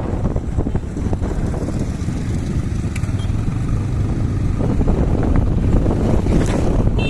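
Wind buffeting the microphone of a moving motorcycle, a loud, steady low rumble.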